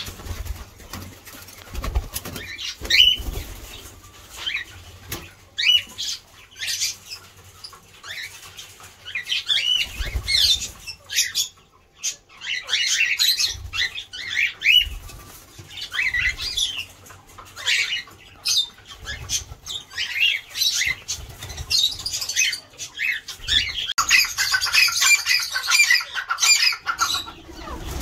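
A colony of caged breeding birds chirping and squawking, with many overlapping calls that grow busier near the end, and a few low thumps.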